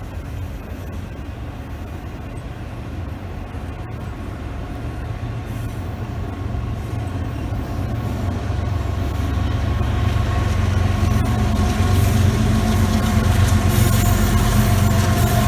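Train rumbling, growing steadily louder as it approaches, with steady engine tones building in the second half.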